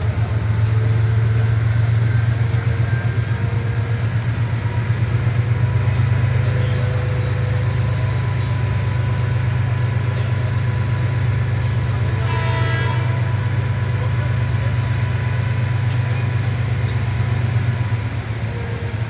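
Passenger train running slowly out of a station, heard from inside the coach doorway: a steady, loud low drone. About twelve seconds in, a short horn sounds once.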